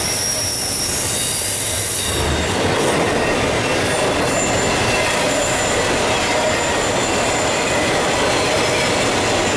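Double-stack intermodal freight cars rolling past at close range: a steady rush and rumble of steel wheels on rail, with thin high-pitched wheel squeals over it that are strongest in the first couple of seconds.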